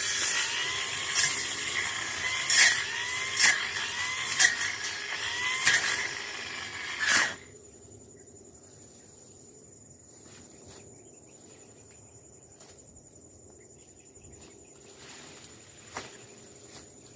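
Tanzu brush cutter running and cutting through brush, with repeated sharp strikes and rising surges in engine speed, then stopping suddenly about seven seconds in. After that a faint, steady, high insect whine remains.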